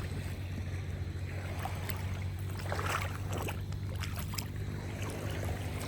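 A motor running steadily with a low, even hum, with light water noise and scattered small clicks over it.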